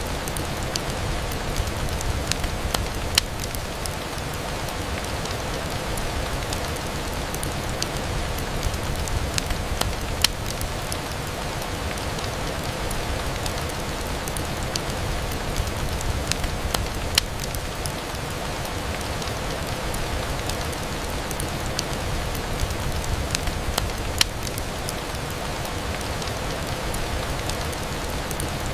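Steady rain on a window glass, with scattered sharp ticks of drops or crackles through the even hiss.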